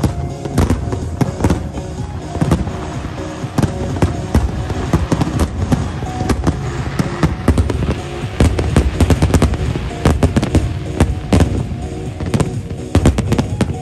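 Aerial firework shells bursting in quick, irregular succession with crackling, over music. The bangs come thicker about halfway through.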